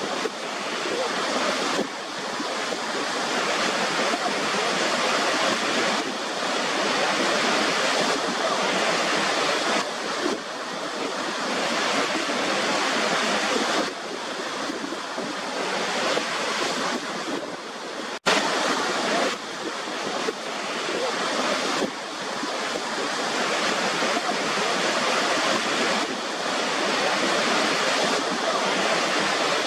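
A waterfall: a steady rush of falling water that swells and eases every few seconds, with a split-second break about eighteen seconds in.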